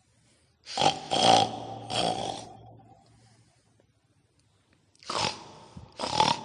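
Pig grunting and snorting in short rough bursts: three close together about a second in, then two more near the end, with quiet gaps between. The sound is presented as a babi ngepet, the were-pig of Indonesian folklore.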